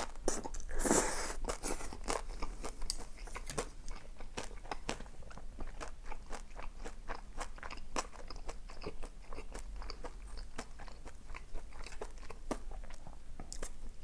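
Close-miked chewing of crunchy food: a steady run of crisp, moist crunches and mouth clicks, with a louder bite about a second in.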